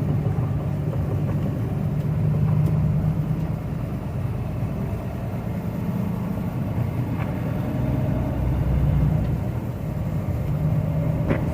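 Heavy truck driving on the highway: its engine runs at a steady drone, and tyre and road noise run along under it.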